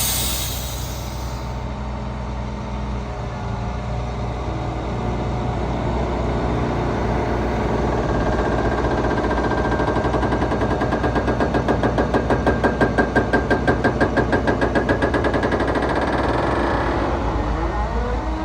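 Diesel engine of an International 7700 6x4 dump truck running steadily. A hiss fades out in the first second or two. From about eight seconds in, a rhythmic pulsing of about four beats a second builds, is loudest a little past the middle, and fades near the end.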